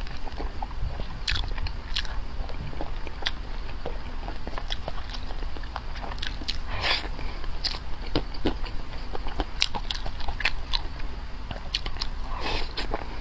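Close-miked eating: a person chewing and biting food, with many short, sharp mouth clicks at irregular moments, over a low steady hum.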